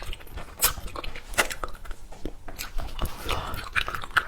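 Close-miked eating: biting into and chewing jam-filled candies, heard as irregular sharp clicks and crackles.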